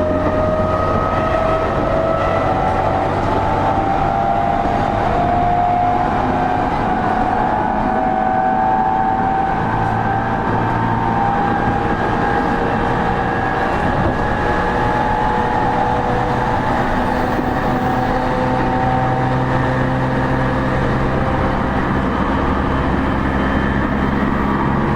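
E231 series electric train running, heard from inside a motor car: the traction motor whine rises slowly in pitch as it gathers speed, over loud, steady wheel and rail rumble.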